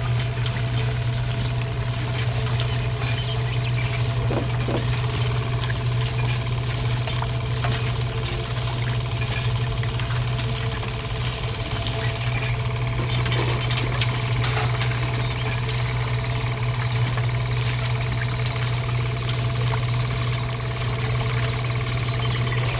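A small motor running steadily with a constant low hum, with a few faint clicks and knocks over it.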